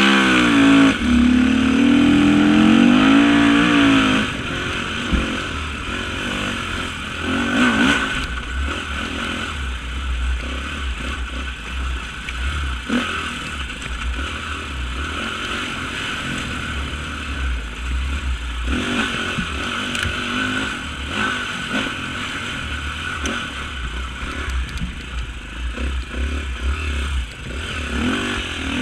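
Off-road motorcycle engine revving hard for the first four seconds, pitch climbing and dropping through gear changes, then running at lower, varying throttle. Occasional knocks and clatter come through from the bike.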